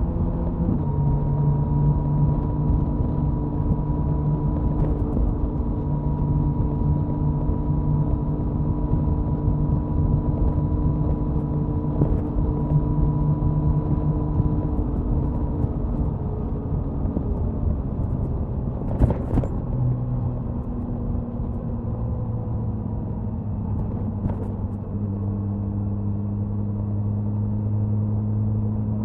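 Suzuki Hayabusa's inline-four exhaust at a steady highway cruise, with heavy wind rush. The engine note drops about two-thirds of the way through as the bike slows, then holds steady at the lower pitch. A sharp click comes in the middle of the slowdown.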